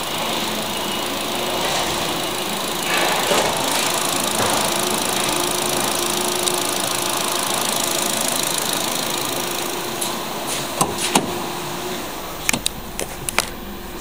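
2008 Holden Astra 1.8 four-cylinder petrol engine running steadily, briefly louder about three seconds in. Sharp clicks near the end.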